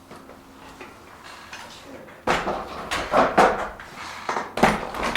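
Weights clanking and knocking as they are handled: a quiet start, then from about two seconds in a run of sharp, irregular clattering knocks.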